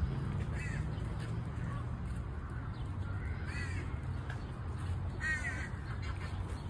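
A bird giving three short, harsh calls a couple of seconds apart, over a steady low background rumble.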